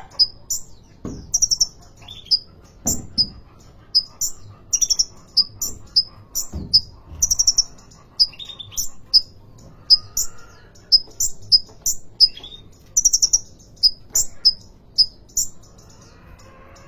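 A caged sunbird (kolibri ninja) singing busily: a steady run of short, high chirps, two or three a second, broken by quick chattering trills.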